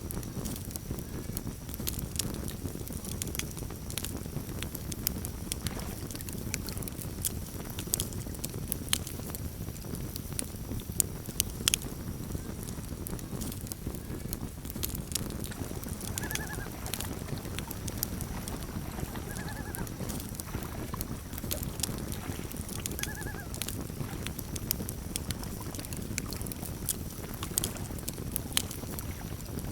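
Campfire crackling, with frequent sharp pops over a low steady rumble. In the middle stretch, three short chirps sound a few seconds apart.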